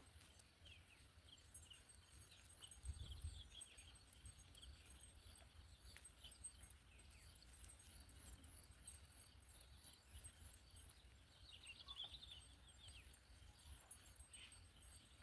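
Near silence: faint outdoor ambience with scattered faint high chirps, a small cluster of them about twelve seconds in, over a faint low rumble.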